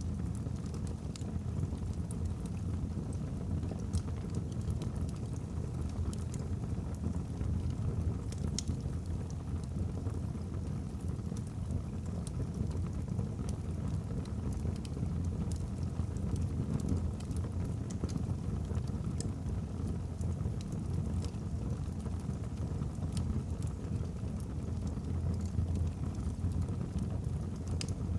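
Wood fire burning in a fireplace: scattered sharp crackles and pops of the logs over a steady low rumble.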